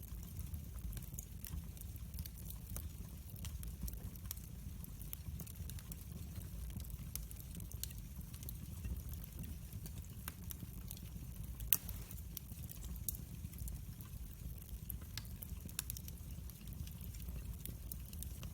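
Wood fire crackling in a fireplace: scattered sharp snaps and pops over a low, steady rumble, with one louder pop about twelve seconds in.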